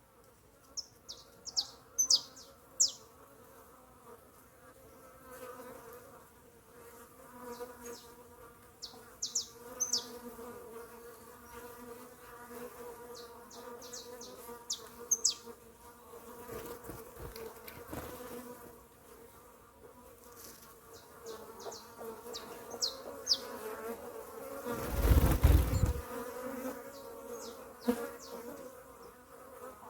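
Bees buzzing steadily around papaya, with clusters of short, high bird chirps now and then. A brief, loud low rumble comes near the end.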